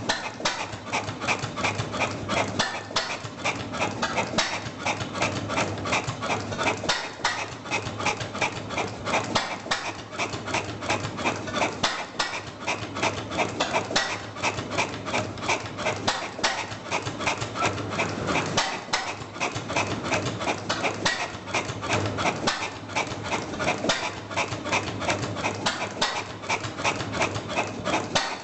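Vintage stationary engine running steadily, a rapid, even knock over a low hum.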